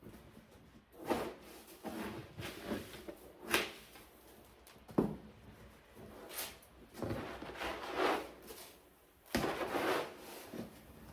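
Litter scoop scraping and sifting through cat litter in a litter box, in an irregular string of scrapes and light knocks.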